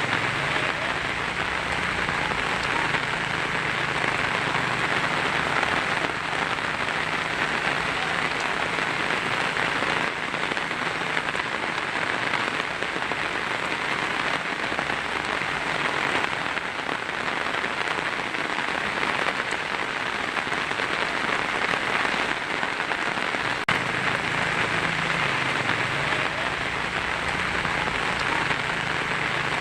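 Heavy rain falling steadily on a tin roof, a dense, even rush of drops with no break.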